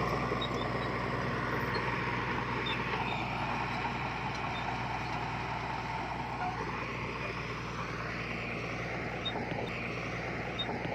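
Diesel engine of heavy earthmoving equipment running steadily, its note changing in the middle and then settling back.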